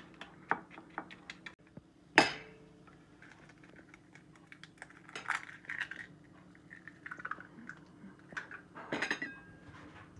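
Kitchen dishes and utensils clinking and knocking in scattered short strokes, with one loud clank about two seconds in that rings briefly.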